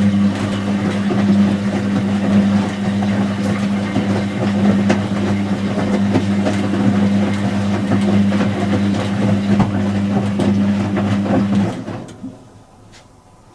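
Whirlpool AWG023 top-loading washing machine running, with a steady electrical hum and rushing, sloshing water noise. It stops about twelve seconds in.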